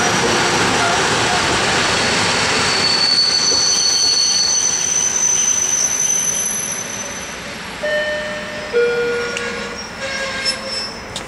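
Coupled EN57AKM electric multiple units rolling in and braking to a stop, with a loud rolling rumble at first. High steady squeals from the wheels and brakes start about three seconds in, and the sound fades to a few short squeals as the train halts near the end.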